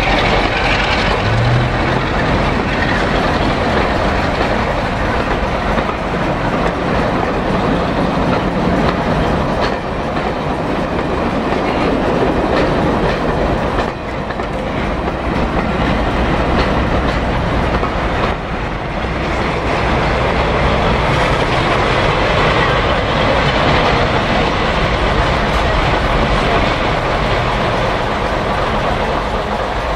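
Passenger coaches of a diesel-hauled train rolling past at close range, their wheels clacking over the rail joints in a steady rumble, with a short lull about halfway through.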